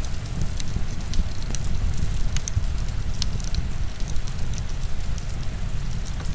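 Crackling wood fire, with frequent small sharp pops and snaps over a steady wash of heavy rain with a low rumble.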